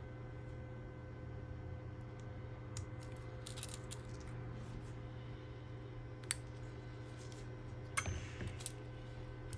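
Small hand tools clicking and tapping on a phone and work surface: scattered light clicks, a sharp one about six seconds in and the loudest about eight seconds in, over a steady low hum.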